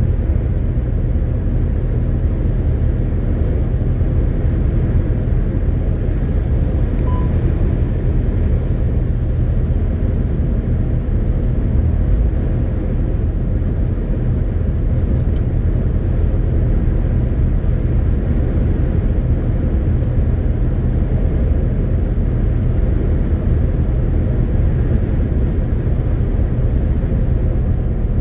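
MAN TGX 18.520 truck driving at a steady pace: the low, even drone of its straight-six diesel engine together with road noise, holding steady without revving or gear changes.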